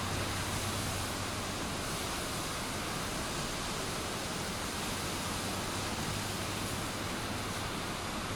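Steady rushing noise of fast-flowing floodwater, with a low steady hum underneath that eases about six seconds in.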